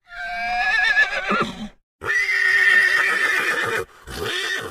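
Horse neighing three times, long wavering whinnies, the second the longest.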